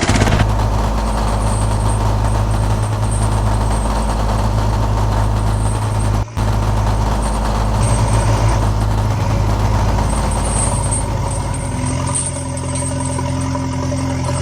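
Heavy vehicle engine idling with a steady low drone. It drops out for a split second about six seconds in, then carries on.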